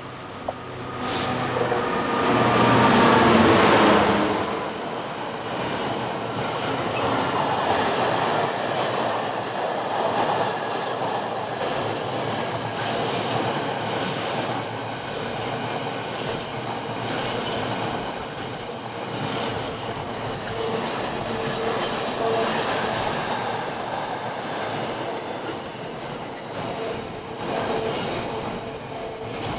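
Class 66 diesel-electric locomotive passing at speed, its two-stroke diesel engine loudest a couple of seconds in, then a long train of container wagons rolling past with a steady rumble of wheels on the rails.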